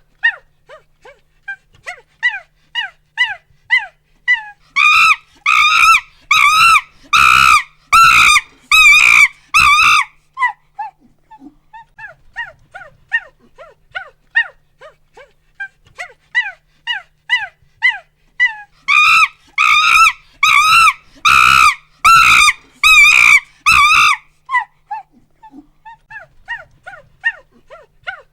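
Chimpanzee pant-hoots: quick rhythmic hoots build into a run of about six loud, drawn-out screams, then ease back into quieter panting hoots. The whole build and climax happens twice, the second loud run about 19 seconds in.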